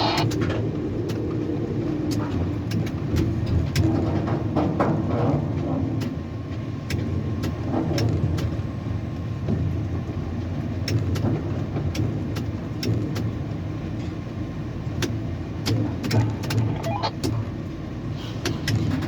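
Tower crane machinery running with a steady low rumble and scattered sharp clicks.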